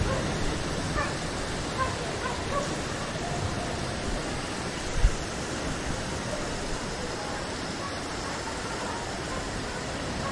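Steady rain falling, a continuous even hiss. The low rumble of a thunderclap fades out at the start, and a single short low thump comes about halfway through.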